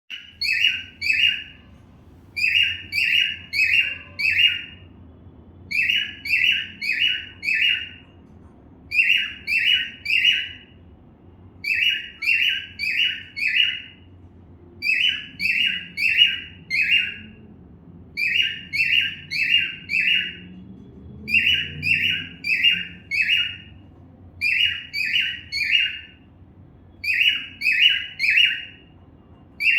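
Cockatiel calling in quick runs of about four chirps, each run repeated every three seconds or so in a steady pattern.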